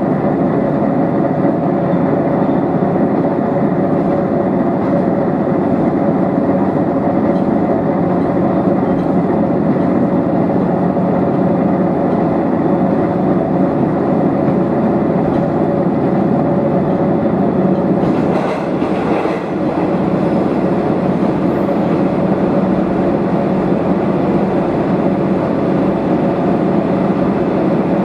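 Diesel railcar running along the line, heard from inside the passenger cabin: a steady engine drone over wheel and rail noise. About two-thirds of the way through, the running noise briefly changes character.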